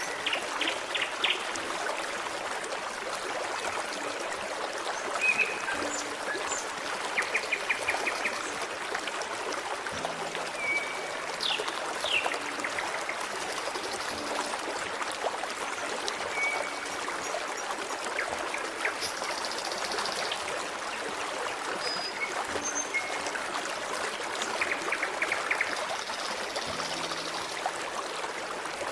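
Forest stream running steadily, with small birds calling now and then over it: several short trills of quick repeated notes and brief high chirps.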